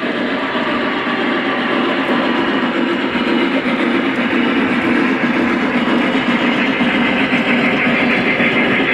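Lionel model steam locomotives, a Reading T1 and a Union Pacific Big Boy, running side by side with passenger trains: a steady running noise of the trains on the track.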